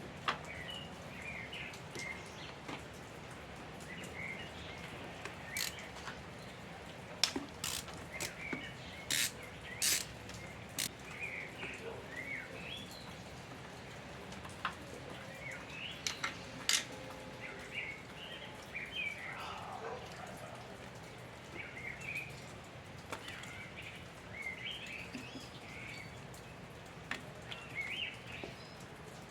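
Small birds chirping over and over, with scattered sharp clicks, most of them clustered in the first half.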